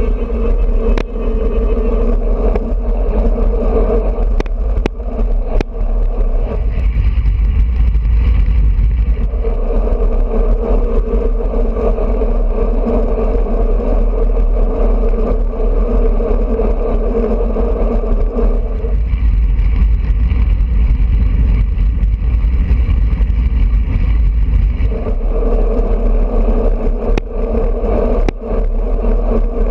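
Wind rushing over the microphone and road noise from a moving road bicycle, a steady loud rumble whose higher hum fades out twice for several seconds, with a few sharp ticks.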